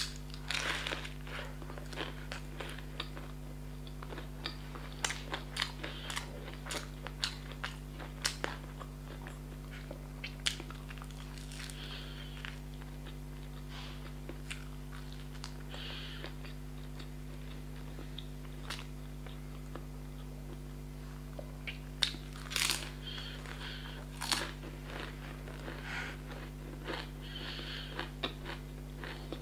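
Close-miked biting and chewing of a fried vegetable samosa, with crisp crackles of the pastry shell. The crunches come thick through the first ten seconds, thin out, then come back as a louder cluster about two thirds of the way through.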